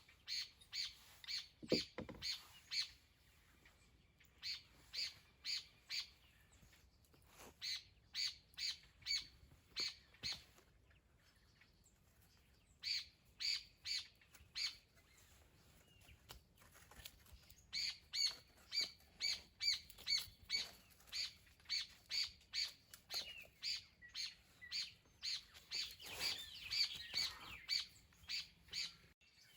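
A bird calling a long series of short, high chirps, about two a second, in runs broken by pauses. A single low thump about two seconds in.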